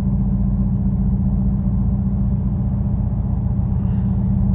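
Steady low rumble of a car driving, heard from inside the cabin: engine and road noise, with a constant low drone.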